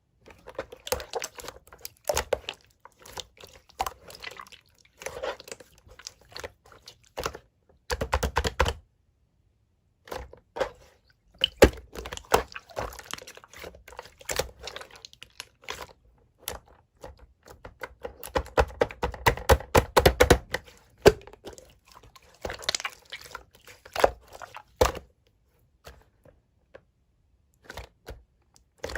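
Close-miked clicking and crunching sounds in irregular bursts, broken by short silent gaps; the densest stretch is about twenty seconds in.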